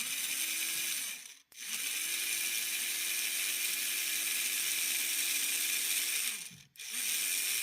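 Small electric motor and worm gear drive of an HO-scale 0-10-0 model locomotive running in three spells: a short one, a long one of about five seconds, and another starting near the end. Each spins up and winds down, with a steady hum and a gritty gear whir. The worm is riding up out of mesh with the gear, and the owner blames the worm.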